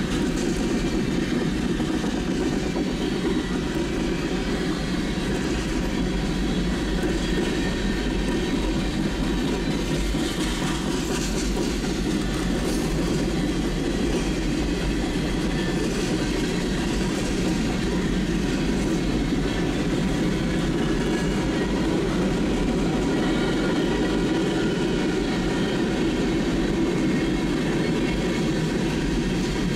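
Freight cars of a Norfolk Southern freight train (tank cars, covered hoppers, boxcars) rolling past: steady noise of steel wheels on rail, even in level throughout.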